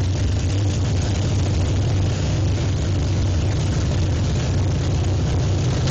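1956 Chevy drag car's engine idling loud and steady with a low, even rumble.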